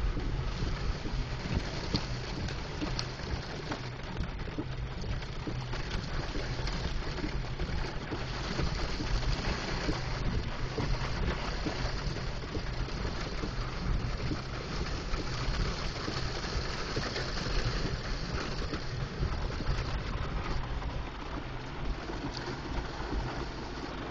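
A vehicle moving along a wet, flood-damaged driveway: a steady low rumble with an even hiss over it, no separate knocks or splashes standing out.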